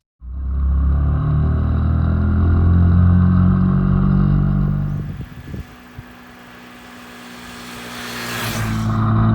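Small 90 cc single-cylinder Honda motorcycle engine pulling under way, its pitch climbing for about five seconds before it eases off, then building up again near the end with a short rush of noise.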